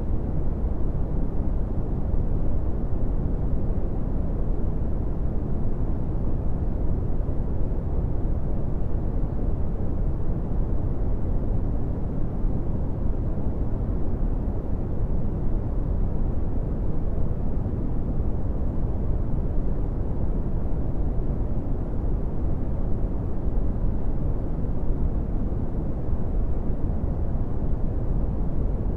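Brown noise: a steady, unchanging rumbling hiss, strongest in the low end and fading off toward the highs.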